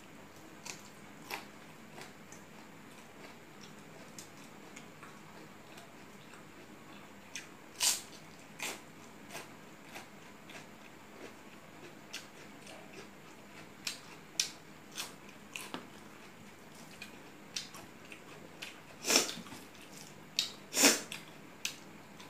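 Close-up eating sounds of a person chewing rice and curry eaten by hand: scattered mouth clicks and smacks, with louder, longer sounds about eight seconds in and twice near the end.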